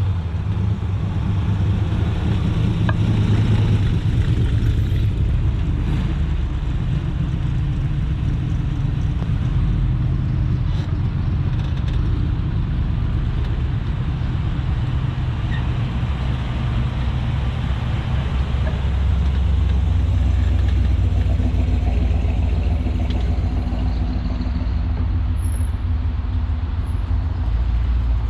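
Steady low rumble of a slow-moving car, engine and road noise, with faint engine tones coming through in the second half.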